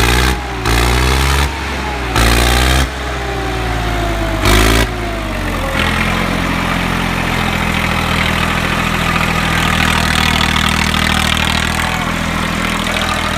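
Tractor diesel engine running at a steady idle. In the first half, several short, loud bursts cut sharply in and out over it.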